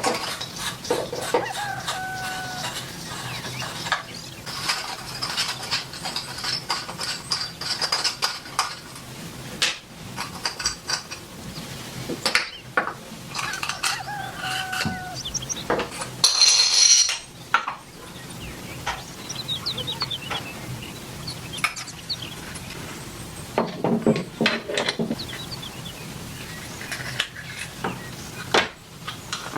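Repeated clinks and knocks of metal parts being handled, with chickens clucking in the background. About halfway through there is a short, loud burst of noise lasting about a second.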